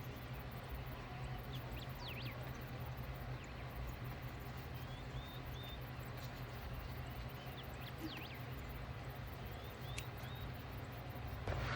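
Small birds singing and calling now and then, short chirps, some in quick runs of three rising notes, over a steady low hum.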